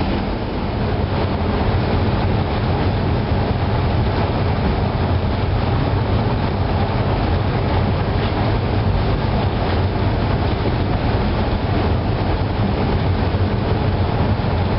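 Steady, loud drone of running marine diesel machinery in a ship's engine room, with a low hum beneath a constant noise.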